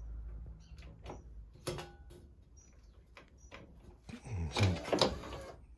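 Mazda RX-7 FC pop-up headlight being pulled up and down by hand, its lift mechanism giving scattered clicks and clunks, with a louder stretch about four seconds in. The mechanism is sticky and will not rise fully on its own.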